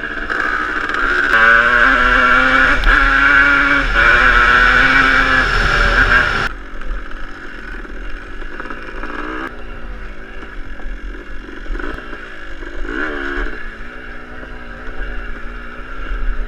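Motocross bike engine revving up and down as it rides, with the pitch rising and falling. It is louder for the first six seconds, drops suddenly about six and a half seconds in, and runs on quieter with its pitch still changing.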